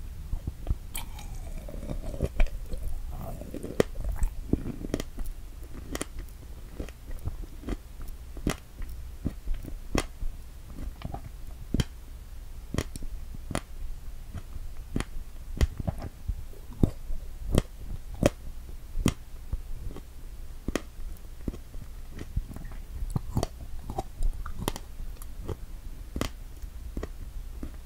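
Close-miked chewing of strawberry Santas (strawberries with whipped cream), with sharp, wet mouth clicks coming about once or twice a second.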